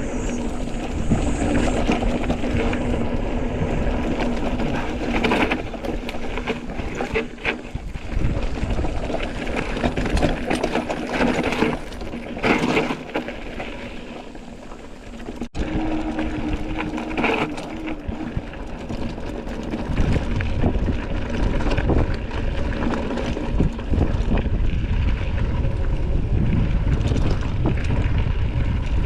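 Mountain bike being ridden along a dirt trail: wind buffeting the camera microphone over tyre noise, with scattered knocks and rattles from bumps.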